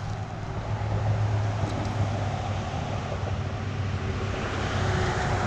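Creek water rushing steadily, with a low rumble underneath.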